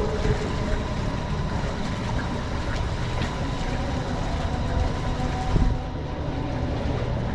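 A small boat's engine running steadily, a low rumble under wind and water noise.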